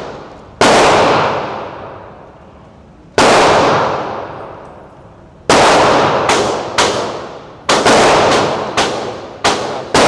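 Handgun shots at an indoor range, each followed by a long echo. The first few come seconds apart; from about halfway in they come faster, roughly one to two a second.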